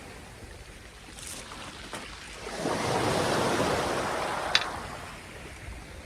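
Sea surf on the shore: a wave swells up about two and a half seconds in and washes away over the next few seconds, with one sharp click near its end.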